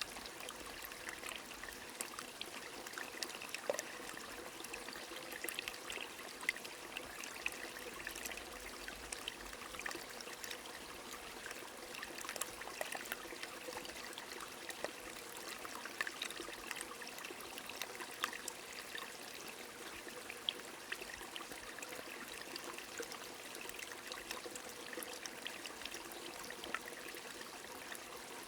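A stream trickling with rain falling: a steady wash of running water sprinkled with many small, scattered ticks.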